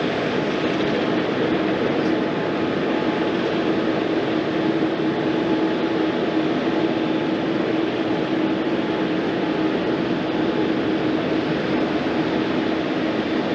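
Jet airliner engines running: a steady rushing noise with a constant hum underneath.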